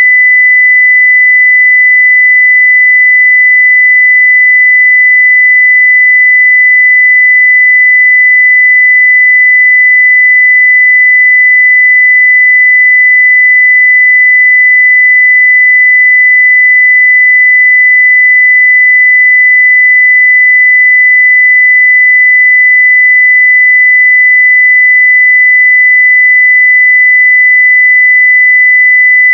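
A loud, steady 2 kHz sine-wave test tone at full level, one pure pitch held without change.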